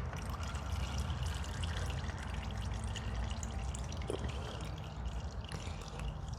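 Motor oil trickling and dripping into a drain pan from the Yamaha Tracer 9 GT's engine while it drains, with small scattered clicks and taps of handling.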